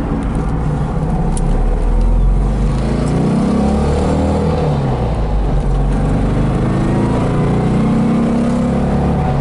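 1965 Porsche 356C's air-cooled flat-four engine accelerating. Its pitch rises, drops at an upshift about three seconds in, climbs again, and drops once more at a second shift near the end.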